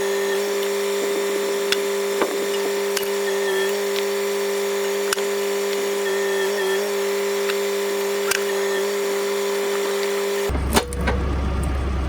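Renault tractor running at a steady speed to drive a hydraulic log splitter, with a steady pump whine and a few sharp clicks over it.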